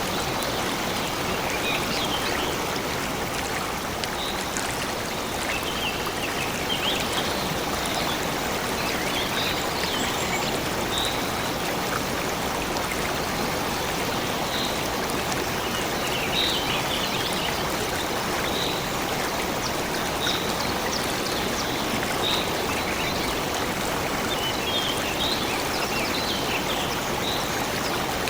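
A stream running steadily, with short bird chirps scattered throughout.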